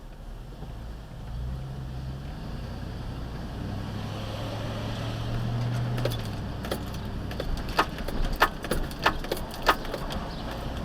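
A vehicle engine running with a steady low hum that swells a little from about four to six seconds in. In the second half comes a string of sharp clicks and rattles, the loudest of them near the end.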